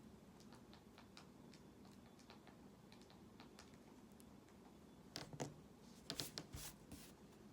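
Light taps and short strokes of a drawing tool on a drawing surface: a string of faint ticks, then a few louder clustered scratchy clicks about five and six seconds in.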